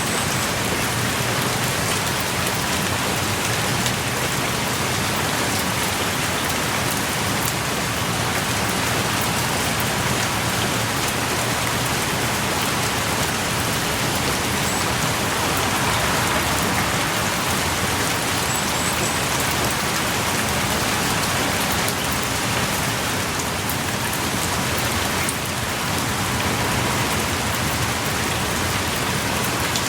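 Heavy rain pouring steadily on a forest, heard from inside a small rock cave, with individual drops pattering close by.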